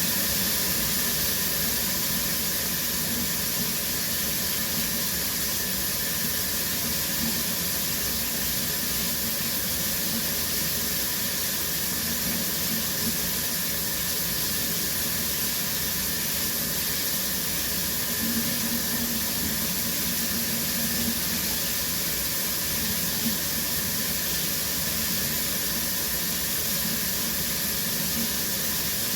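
Shower water running steadily, spray hissing as it falls, with no pauses or changes.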